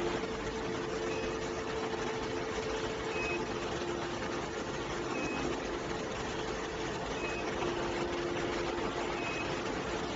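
Steady machinery noise with a constant hum, and a short high beep repeating about every two seconds.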